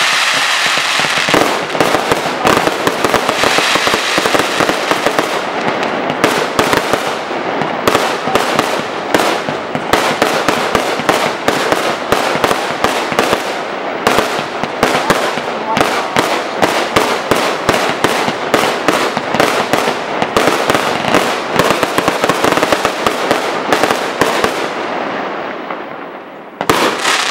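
Fireworks display: a dense, unbroken barrage of rapid bangs and crackling. It thins out and fades about 25 seconds in, then a few last bangs come near the end.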